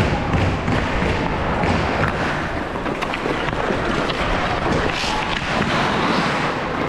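Busy game noise in a large echoing hall: a steady din of players and onlookers, broken by scattered thuds of a ball being kicked or bounced.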